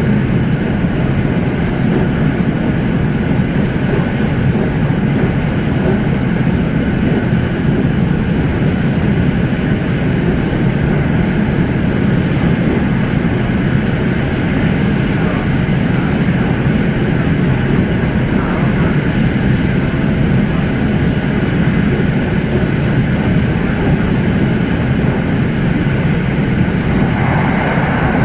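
Steady running noise of an SRT Red Line electric commuter train, heard from inside the carriage while it travels at speed. A little more hiss and rushing sound comes in near the end.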